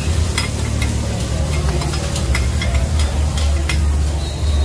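Fresh green-mussel omelettes (hoi tod) frying in oil on a large flat griddle, sizzling, while metal spatulas scrape and clink against the pan again and again. A steady low hum runs underneath.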